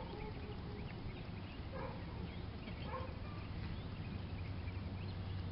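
Outdoor background of scattered short bird chirps over a steady low hum.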